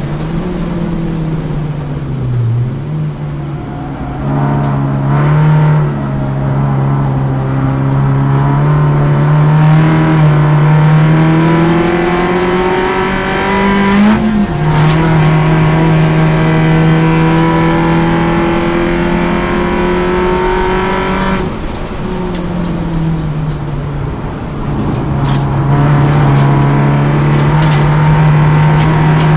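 Alfa Romeo Twin Spark race car engine heard from inside the car, running hard through a sequence of corners. The revs dip and climb and step with the gear changes, and there are a few short clicks.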